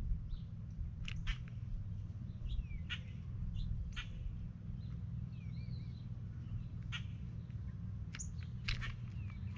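Wild birds giving short chirps and calls at irregular intervals, a few of them warbled, over a low steady background rumble.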